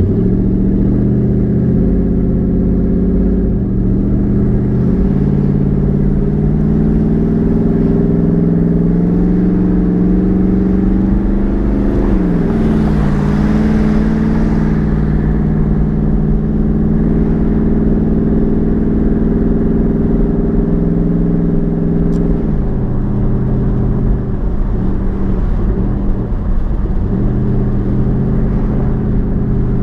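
Twin-turbocharged 5.0 Coyote V8 of a 2014 Mustang GT running under way. Its pitch climbs steadily through each gear, with drops at about 3 seconds in, about 12 seconds in and about 22 seconds in, as the TH400 automatic shifts. There is a surge of rushing hiss around the middle shift.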